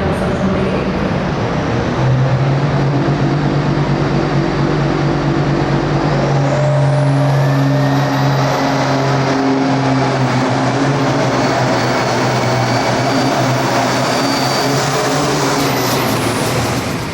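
Hot farm pulling tractor's turbocharged diesel engine running hard at full power, loud and steady, with a high whistle that rises over a few seconds partway through. The sound drops away near the end.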